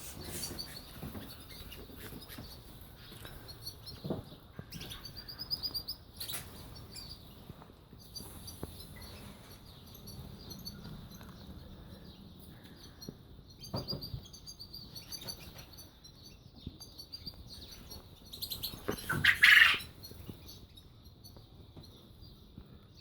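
Canaries twittering: short high chirps in quick runs that come and go, with a few scattered knocks. A brief, louder noisy burst comes about nineteen seconds in.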